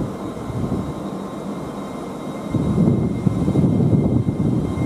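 A train running through the station: a low rumble that grows louder about two and a half seconds in, with a faint steady high whine.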